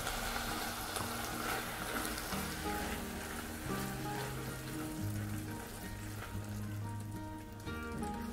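Ground beef and tomato sauce sizzling in a hot pan. The sizzle is densest for the first two or three seconds and then thins. Background music with held notes plays along.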